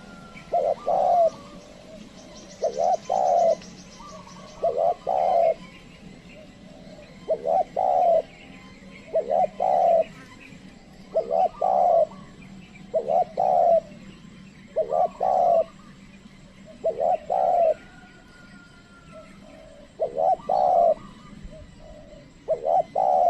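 Spotted dove (tekukur) cooing repeatedly, about one phrase every two seconds, each a short note followed by a two-part coo, called by a trained decoy bird to lure wild doves. Faint chirps of other birds in the background.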